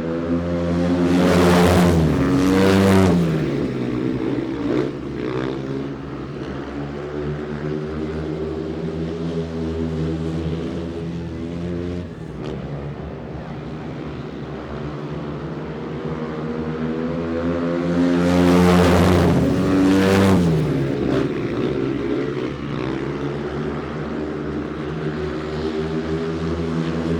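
An engine drones steadily and passes close twice, near the start and about two-thirds of the way in. Each time it swells louder and its pitch drops as it goes by.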